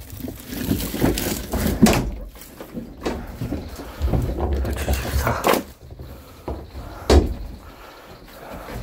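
Bundles of firewood being handled and set down, with scraping and several dull thumps, the sharpest about two, five and a half and seven seconds in.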